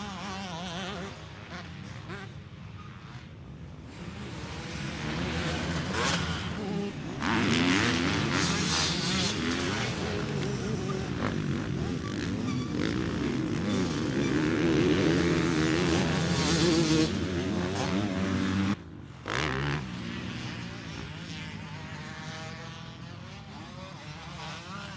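Motocross bikes racing, their engines revving up and down, louder in the middle of the stretch. The sound breaks off briefly about nineteen seconds in and then picks up again more quietly.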